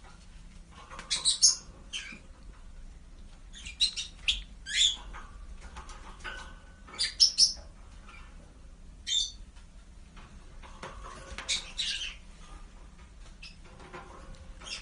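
A small bird chirping: short high-pitched chirps and squeaks at irregular intervals, some sliding down in pitch, over a faint steady low hum.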